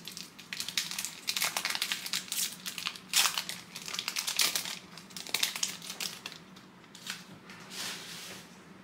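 A trading-card pack's foil wrapper crinkling and crackling as it is torn open and handled, with dense irregular crackles that thin out near the end.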